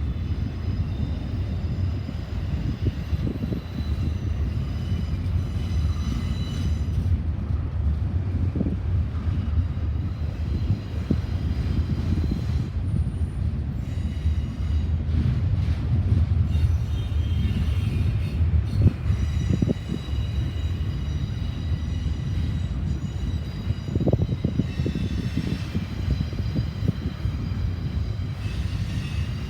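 Freight train cars rolling past: a steady rumble of wheels on rail with occasional sharp knocks, and faint high wheel squeal coming and going.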